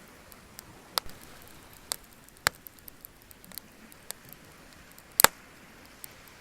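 Wood fire crackling, with irregular sharp pops and snaps over a faint steady hiss; the loudest is a double pop about five seconds in.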